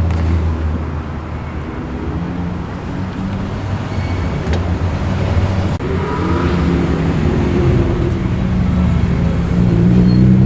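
Car engines running at low revs as cars roll slowly past, a steady low engine note that dips briefly about six seconds in and then carries on.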